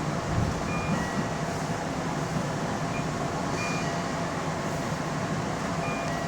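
Keihan Electric Railway local train running, a steady rumble of wheels and motors heard from inside the front car. Short, high thin tones come and go every second or two.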